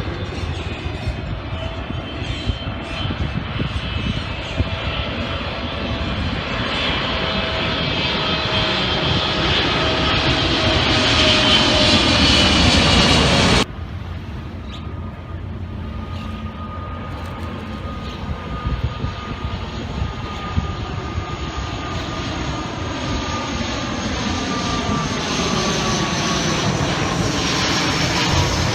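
Aircraft engine passing, its tones slowly falling in pitch as the sound grows louder. It cuts off abruptly about halfway through and gives way to a second, similar pass that also builds.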